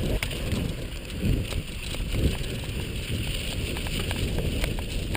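Worn bicycle being pedalled slowly through deep sand, with irregular clicking from its drivetrain, whose bent chainrings make the chain jump between rings. A steady rumble of wind and handling on the microphone runs underneath, and the rider gives a couple of short low grunts.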